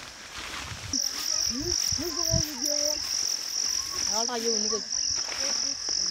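Cricket chirping, a high pulsing trill repeating about three times a second, steady from about a second in.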